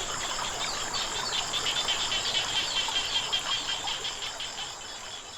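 A chorus of frogs calling over a steady high drone of insects and a haze of running water, fading out over the last couple of seconds.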